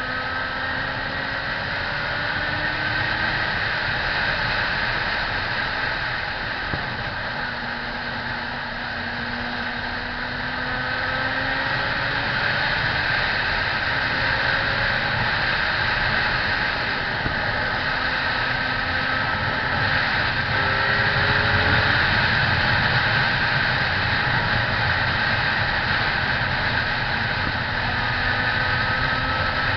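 Motorcycle engine running under way, its pitch climbing in several long rises, under a steady rushing noise.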